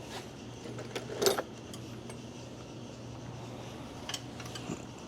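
Wrenches clinking against a brake-line fitting as it is tightened: a few sharp metallic clinks, the loudest about a second in and two more near the end, over a steady low hum.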